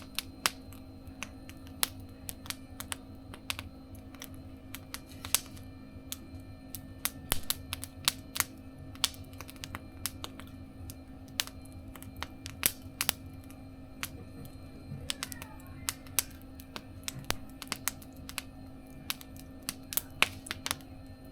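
Wood fire crackling in a mesh fire-pit stove, with irregular sharp pops and snaps several times a second, over a steady low hum.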